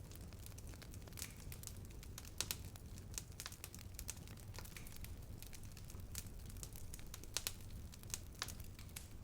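Fire burning and crackling: irregular sharp pops and snaps over a steady low rumble, with the loudest pops about two and a half seconds in and again near seven and a half seconds.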